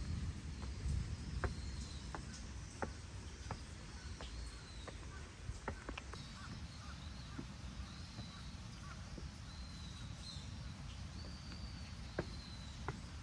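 A wild bird calling over and over with short, high, arched notes about a second apart, over a steady low rumble and scattered sharp clicks.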